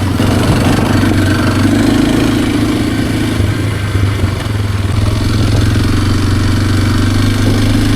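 Kawasaki KLX230R's single-cylinder four-stroke engine running steadily under way, heard from the rider's chest, with a brief dip in level about halfway through.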